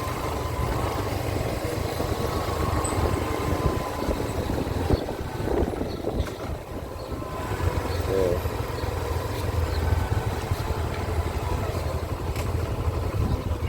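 Small low-displacement motorcycle engine running on the move, a steady low drone that eases briefly a little past halfway.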